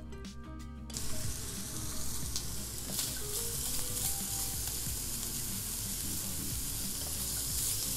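Diced chicken breast sizzling in hot oil in a non-stick frying pan, the sizzle starting about a second in as the pieces go in and running on steadily, with a wooden spatula stirring them.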